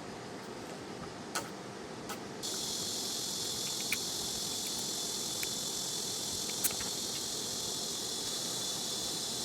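Steady high-pitched chorus of crickets and other grass insects on an evening campsite, coming in suddenly about two and a half seconds in and holding on. A few faint clicks sound over it.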